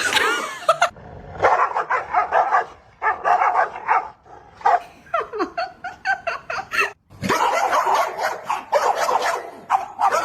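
A dog barking and yipping again and again, with a few whines that slide down in pitch.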